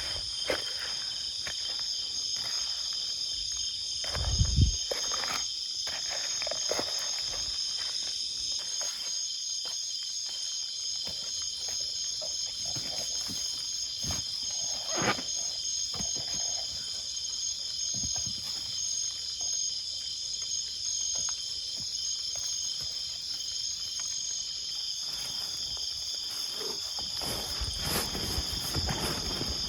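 Insect chorus trilling steadily in several high-pitched bands, with a few scattered knocks and a low thump about four and a half seconds in.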